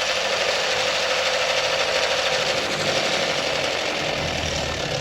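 Toyota Corolla XLi engine running with a fast, steady clatter: the abnormal engine noise the car was brought in to have fixed.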